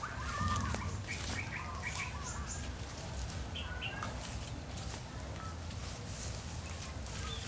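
Small birds chirping in short, repeated calls, most of them in the first half, with leaves and undergrowth rustling now and then.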